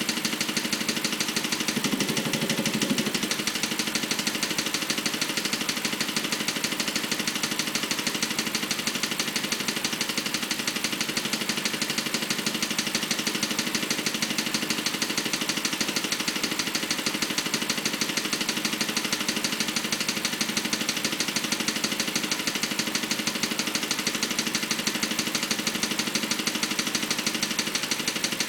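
BMW 545i (E60) 4.4-litre V8 engine running at a steady idle, with a fast, regular clicking over the engine sound: the weird noise the owner is trying to trace.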